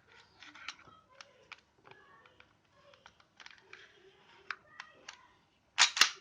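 Small clicks and knocks of a WE G18C Gen 4 gas blowback airsoft pistol being handled as its parts are fitted together. Near the end come two loud, sharp clacks a fraction of a second apart.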